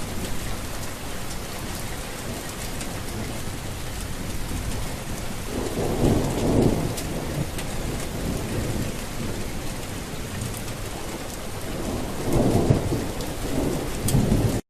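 Heavy rain falling steadily, with a low roll of thunder about six seconds in and another near the end.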